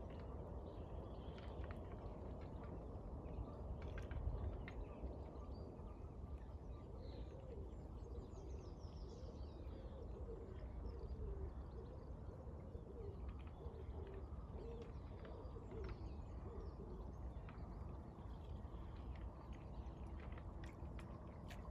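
Birds calling faintly outdoors: scattered thin chirps, and a run of soft, low, repeated calls through the middle, over a steady low rumble.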